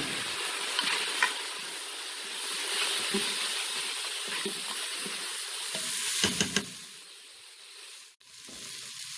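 Onion-tomato masala sizzling in hot coconut oil while it is stirred in the pot, with a few short scrapes of the spoon. The sound dips and cuts out briefly near the end.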